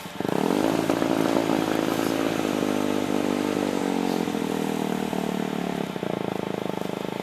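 Formula Hybrid race car's engine coming in suddenly and loud at high revs, then dropping in pitch about three seconds in and running on at lower revs.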